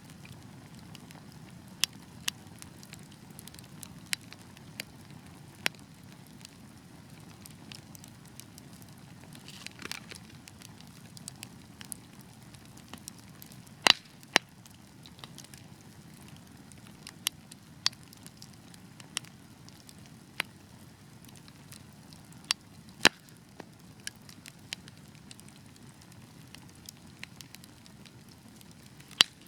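Wood fire burning with a steady low rumble, broken by irregular sharp crackles and pops from the logs, a few of them much louder than the rest.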